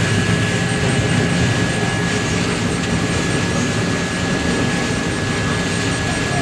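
Combine harvester running steadily while harvesting corn: engine and threshing machinery making a dense, even noise with a constant high whine over a low hum.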